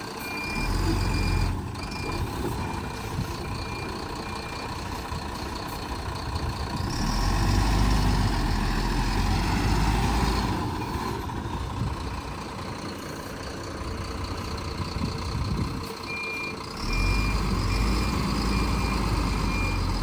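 Diesel tipper truck's engine revving in surges as it edges back and forth round a tight turn. Its reversing alarm beeps repeatedly near the start and again in the last few seconds.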